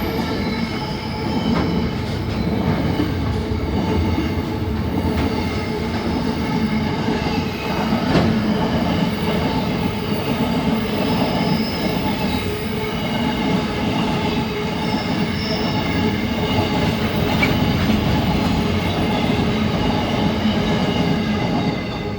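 Freight train's wagons rolling past close by, a steady rumble with a continuous high-pitched wheel squeal over it.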